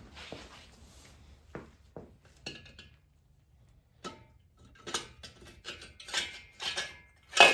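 Metal engine parts and tools clinking and knocking as they are handled, some strikes ringing briefly; a quiet spell of about a second in the middle, then a quicker run of clinks ending in the loudest knock.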